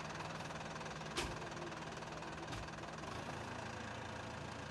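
An engine running steadily at idle, with one sharp knock a little over a second in.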